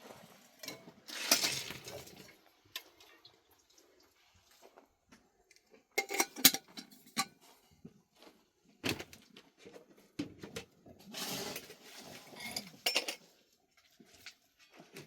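Irregular clinks, knocks and scrapes of hard objects being handled, with a cluster of sharp clicks about six seconds in and short scraping or rustling passages near the start and towards the end.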